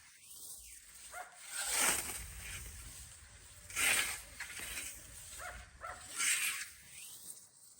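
Scythe blade swishing through grass in repeated mowing strokes, about one every two seconds, with three main swishes.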